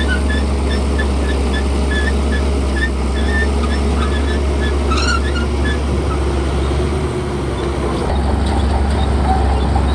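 Shantui bulldozer's diesel engine running with a deep steady rumble, getting louder about eight seconds in. Over the first few seconds a quick run of short high chirps repeats a few times a second, with one brief squeak about halfway.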